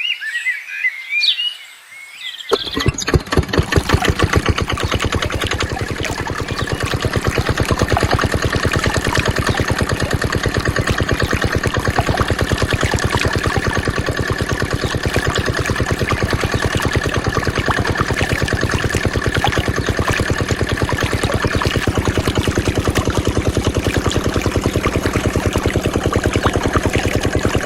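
A small engine driving a water pump starts about two and a half seconds in and then runs steadily at a fast, even firing rhythm. Birds chirp before it starts.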